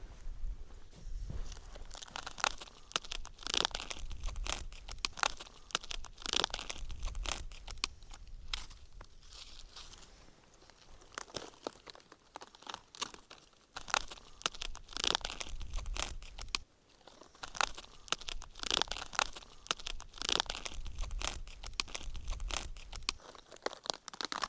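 Birch bark being torn off a tree by hand: repeated crackling, ripping pulls with short pauses between them, easing off for a few seconds around the middle.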